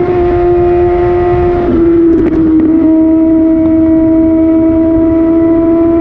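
Kawasaki Ninja ZX6R inline-four with an Austin Racing slip-on exhaust running at high revs under way, a steady high-pitched note with a brief break about two seconds in.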